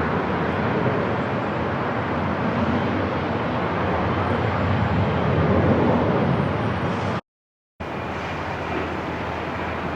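Steady airport background noise, a continuous rushing rumble with no distinct events. About seven seconds in it cuts to dead silence for half a second, then comes back slightly quieter, as at an edit or loop point.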